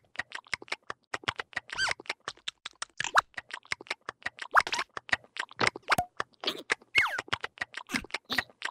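Rapid, irregular patter of cartoon sound-effect clicks and taps, several a second, with a few short pitched squeaks and chirps that glide up or down mixed in.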